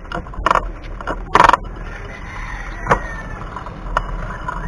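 Road and traffic noise heard from a moving bicycle through a chest-mounted action camera, with a few sharp knocks and a short rattle about a second and a half in.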